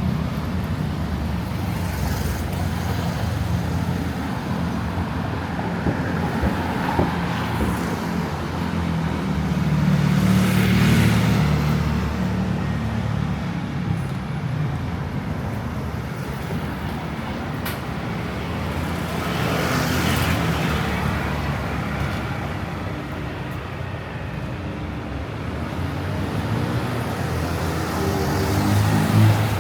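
Street traffic: a steady rumble of car and other vehicle engines, with vehicles passing close by about ten seconds in and again about twenty seconds in.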